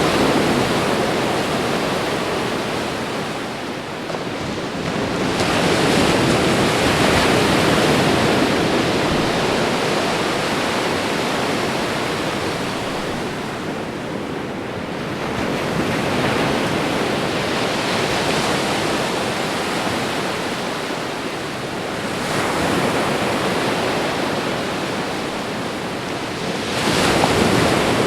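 Ocean surf: waves breaking and washing on a shore in a continuous rushing noise that swells and ebbs. A wave surges louder every several seconds, the last one near the end.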